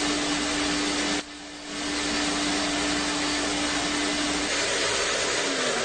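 Vacuum cleaner running: a steady loud rush of air with a humming tone. It drops out for about half a second just after a second in, then comes back, and near the end the hum fades and slides lower.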